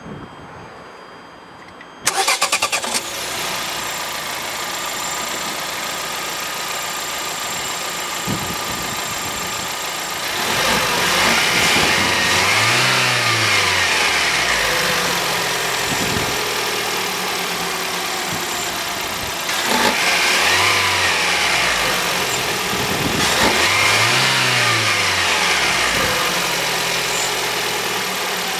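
Lada XRAY's 1.6-litre 16-valve four-cylinder engine cranked by the starter, catching about two seconds in and settling into a steady idle. It is then revved up and let back down three times, once about ten seconds in and twice close together near the end.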